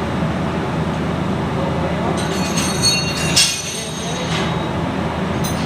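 A high metallic squeal and scrape lasting about two seconds in the middle, with a sharp clank partway through, over a steady low mechanical hum.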